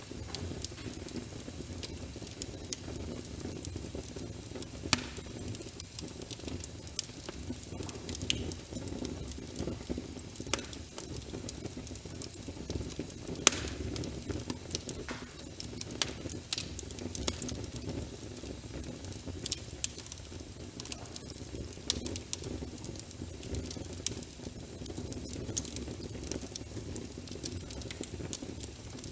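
Crackling wood fire with frequent sharp pops over a steady rumble and hiss of rain, layered as an ambience mix. Two pops stand out, about five seconds in and near the middle.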